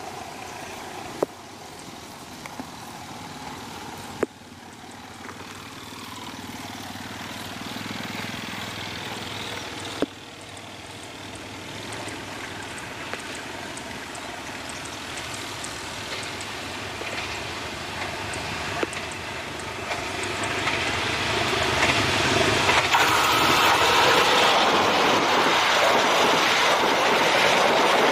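Passenger train approaching at speed and passing close by: a rumble and rail noise that grow steadily louder, swelling sharply about three quarters of the way in as the front of the train draws level, then the steady rush of the carriages going past. A few sharp clicks sound in the first ten seconds.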